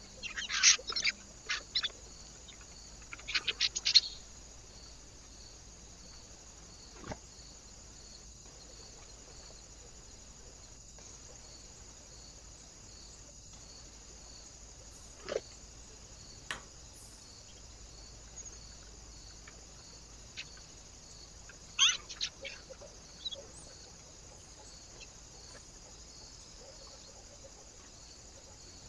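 Small birds at a feeder giving short, sharp chirps in quick bursts: one cluster in the first few seconds and another a little past the middle, with a few single clicks in between, over a steady faint hiss.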